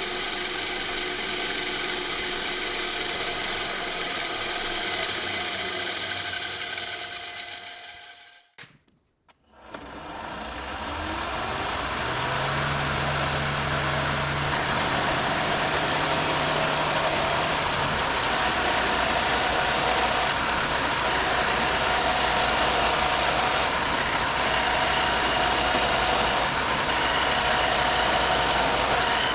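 Workshop power tools running steadily. The sound fades out about eight seconds in, then another motor spins up with a rising whine and runs on steadily with a dense hiss.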